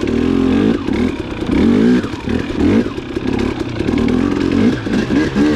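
Dirt bike engine being ridden on a trail, revving up and easing off over and over as the rider works the throttle.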